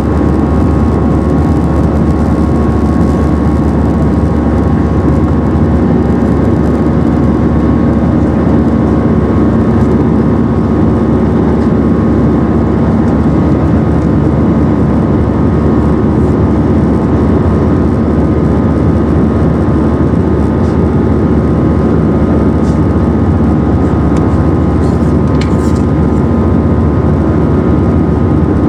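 Airbus A319 cabin noise in the climb after takeoff: a loud, steady drone of jet engines and airflow with a few steady humming tones running through it.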